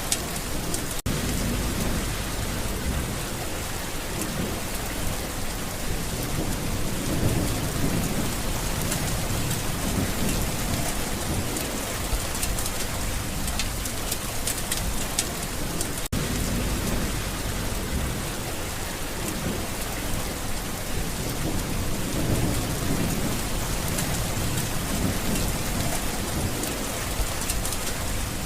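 Steady, heavy rain falling, with low rolling thunder rumbling up and fading a few times underneath. The sound drops out for a split second twice, about a second in and about halfway through.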